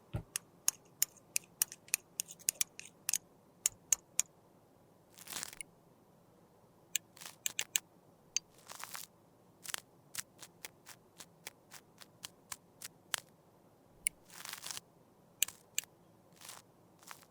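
Close-up ASMR handling sounds of Guerlain Météorites powder pearls being crushed and mixed: many sharp, separate clicks and taps, with three brief crunching scrapes spread through.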